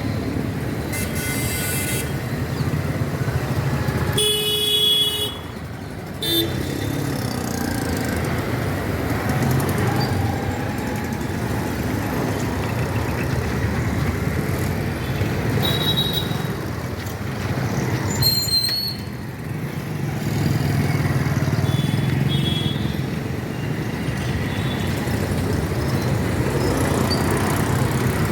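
City street traffic running steadily, with vehicle horns tooting now and then; the loudest blast comes about four to five seconds in.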